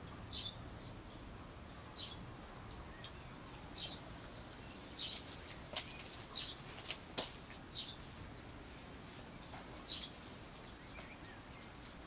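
Birds chirping: short, separate high chirps every second or two over a faint steady background, with a few soft clicks in between from puppies eating off a plate.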